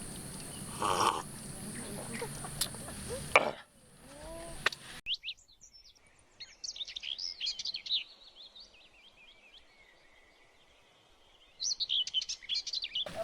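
Small birds chirping in quick, high, short calls, which come thicker and louder near the end. Before them, about three seconds of steady background hiss with a couple of sharp clicks, then the background drops away suddenly.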